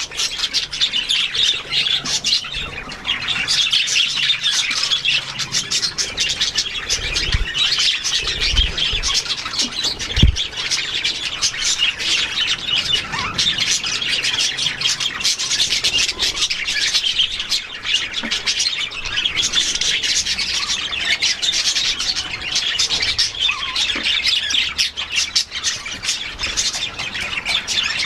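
Many small aviary birds chattering and squawking together in a dense, unbroken din, with a few low thumps about a third of the way in.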